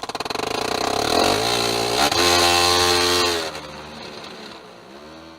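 A vehicle engine revving: its pitch climbs over the first couple of seconds and holds loud. It then falls away and eases off after about three and a half seconds, and the sound cuts off abruptly at the end.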